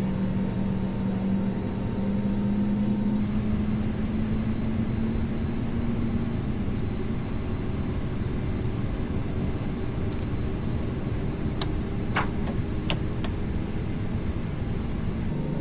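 Airbus A320neo idling on the ground after engine start: a steady hum with a low tone, and a few faint clicks partway through.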